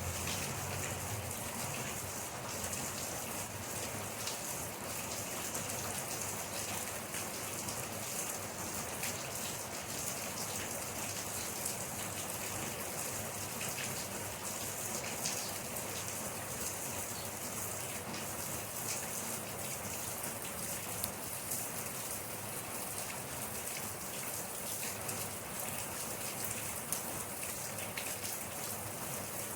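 Steady rain falling: an even hiss of rainfall with the fine patter of many individual drops striking a surface.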